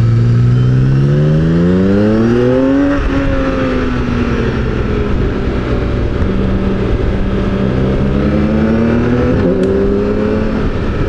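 Motorcycle engine under way, accelerating with its pitch rising for about three seconds, then easing off and holding steady. Near the end it rises again and dips briefly, over a steady rush of wind.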